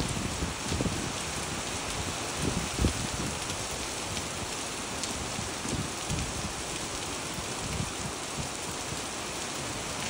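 Rain falling steadily on wet pavement and puddles, an even hiss of splashing drops with scattered low thumps.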